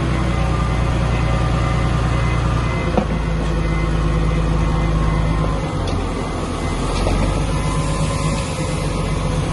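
Heavy diesel engine of earthmoving machinery running steadily under load, its note shifting about three seconds in and again past the middle. A single sharp knock comes about three seconds in, and faint metallic squeaks follow a little later.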